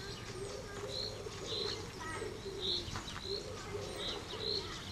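Birds calling: low cooing calls repeating over and over, with short high chirps every second or so.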